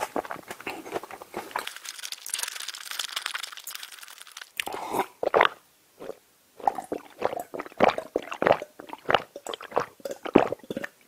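Close-miked mouth sounds: wet chewing and crunching for the first few seconds, then steady gulping of a drink from a glass mug, about two swallows a second.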